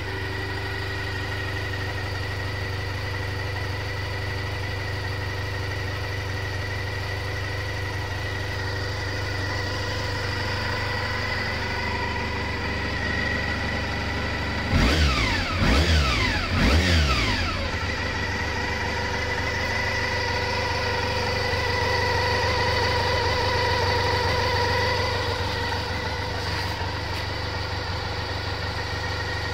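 Honda RVF400R NC35's 400 cc V4 four-stroke engine idling steadily, with three quick throttle blips about halfway through, each rising and falling back to idle. The engine has been brought back to running after ten years standing, on ultrasonically cleaned and synchronised carburettors.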